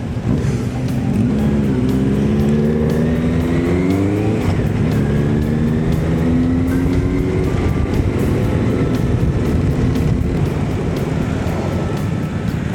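Honda CB1100's air-cooled inline-four engine pulling under acceleration. The revs climb, drop at an upshift about four and a half seconds in, climb again to a second shift, then settle to a steady cruise.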